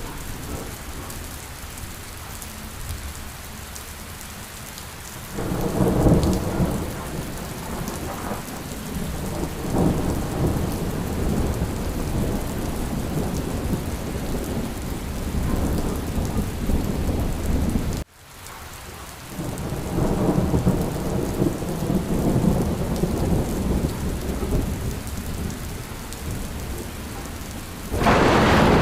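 Steady rain with rolling thunder. The rumbles swell about five seconds in and again after a brief sudden dropout just past halfway, with a louder peal near the end.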